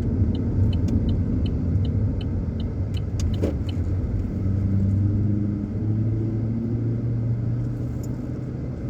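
Car engine running, heard from inside the cabin, while the turn indicator ticks about two to three times a second as the car pulls over to park. The ticking stops about three and a half seconds in, and the engine then idles with a steady hum.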